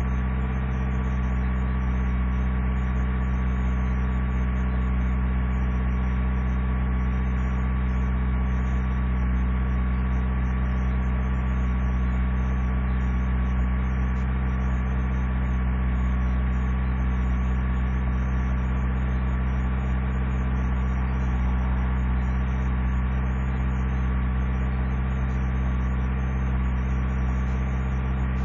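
Truck engine idling steadily as it warms up after a cold start in below-zero cold.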